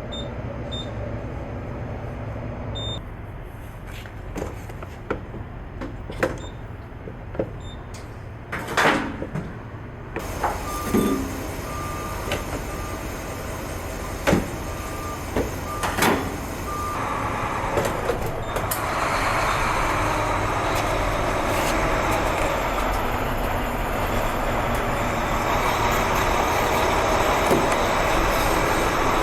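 Idling semi-truck diesel engine with scattered knocks and clicks and a short, repeated electronic beep; about two-thirds of the way through, a steady rushing hiss sets in and grows louder.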